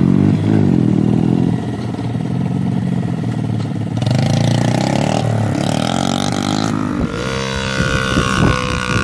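Small motorcycle engines running and revving up and down, the engine sound changing abruptly about four and seven seconds in.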